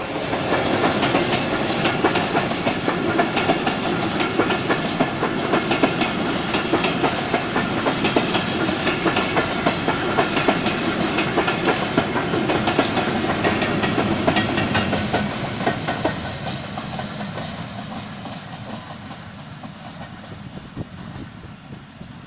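Iranian-built passenger coaches of an intercity train rolling past close by, the wheels clacking rapidly over the rail joints. The sound fades steadily from about 15 seconds in as the train draws away.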